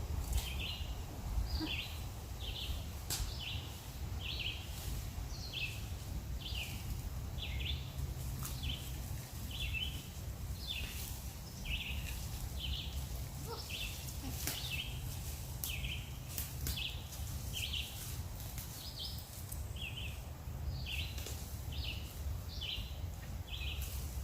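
A short, high chirp called over and over at a steady pace of about one a second, with a low rumble and a few scattered clicks beneath it.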